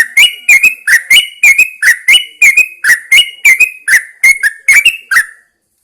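Yellow-vented bulbul calling loudly and close: a fast, even run of short notes, each rising in pitch, about three a second, stopping just before the end.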